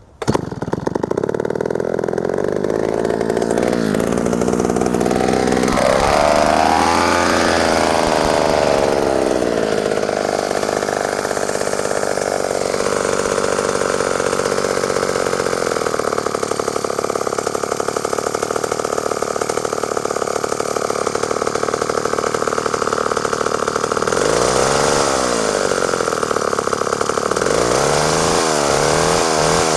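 McCulloch 1-50 two-stroke chainsaw catching just after the start and running loud. Its pitch swings up and down a couple of times, then wobbles rapidly near the end instead of holding a steady idle: the carburetor needs a rebuild kit.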